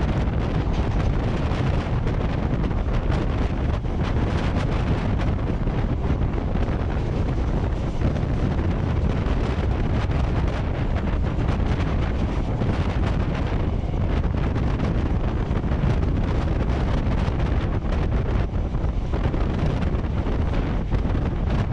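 Wind buffeting the microphone outside a moving electric suburban train (EMU), over the train's steady running noise along the track. The rush is loud and even, with no change.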